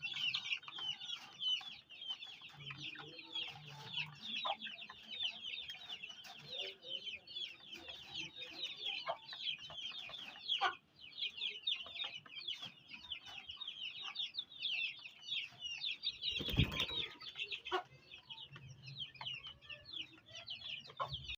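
Chickens: many chicks cheeping in a dense, unbroken chatter of short high peeps, with a few low clucks. A brief thud about three quarters of the way in.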